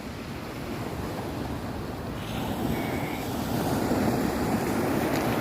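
Surf washing onto the shore, with wind rumbling on the microphone; the surf grows louder about two seconds in.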